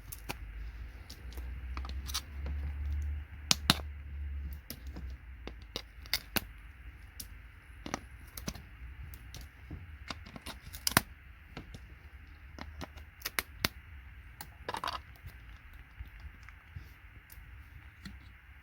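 Hammer and hand tools knocking components off computer circuit boards: irregular sharp clicks and taps, with small parts clattering, and a low rumble of handling early on.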